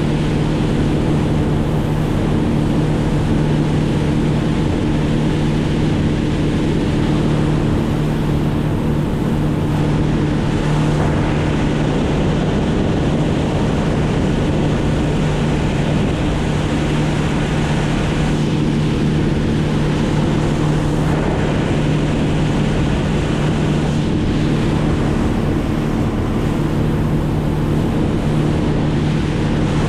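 Engine running at a steady pitch, with wind rushing over the microphone.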